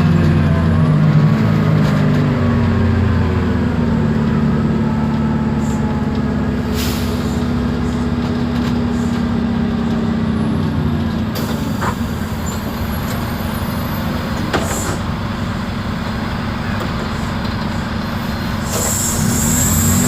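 Isobus City 1200 city bus on the move, heard from inside: its MAN D0836 LOH diesel and ZF Ecomat automatic gearbox running, the engine tones falling over the first few seconds as it slows, then a steadier lower running sound, rising again near the end as it pulls away. A few short hisses of air from the air brakes.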